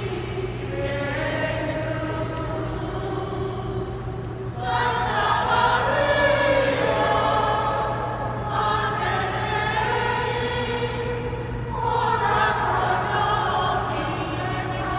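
Choir singing a sacred piece in a large cathedral, in long sustained phrases that swell louder about five seconds in and again near the end.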